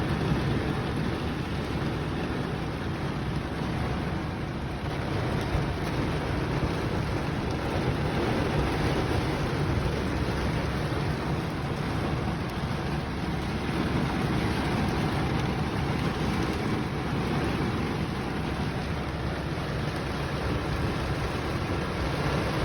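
Heavy rain pouring down, a steady, even rush of water with no pauses.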